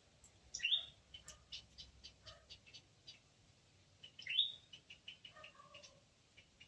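Squirrel calling. Twice, a loud squealing call is followed by a run of short, sharp high chirps, about four a second.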